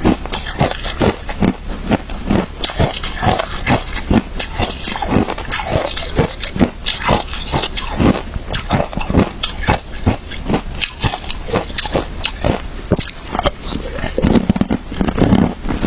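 Close-miked chewing of crunchy shaved ice: a fast, irregular run of sharp crunches.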